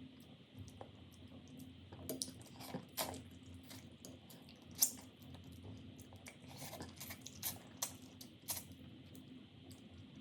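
A person chewing and eating, with soft wet mouth clicks and smacks at irregular intervals; one sharper click about five seconds in.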